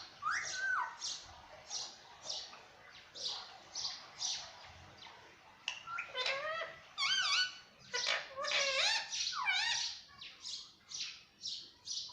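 Pet parakeet calling over and over: a quick series of short, shrill squawks and chirps, some sweeping up and down in pitch, coming thicker and faster in the middle.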